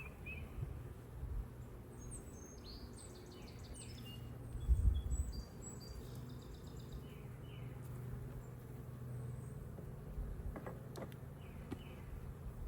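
Steady low hum of an open honeybee hive, with a songbird chirping in short runs over it. There is one dull knock about five seconds in and a few faint clicks near the end.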